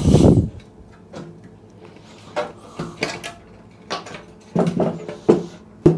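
Light knocks and clinks of metal parts being handled, with a louder knock right at the start, as the opened motorcycle fuel tank and its loose contents are moved about.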